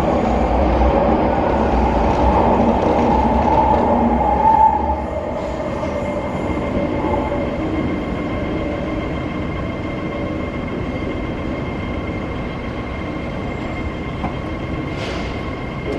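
MTR Tuen Ma line C-train pulling out of a station, its running and wheel noise loud for the first four and a half seconds, then dropping to a lower steady rumble as it moves away. A thin steady high tone sounds throughout.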